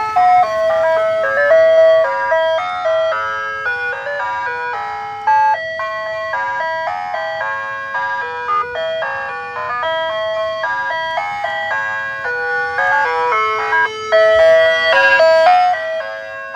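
Ice cream truck's music box playing its jingle through the truck's loudspeaker: a continuous melody of clear, quick notes, switched to song number 1 on request.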